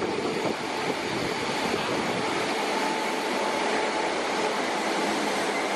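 Old Merseyrail Class 507 electric train pulling into an underground platform, a steady running noise that grows a little, with a faint high whine joining about halfway in.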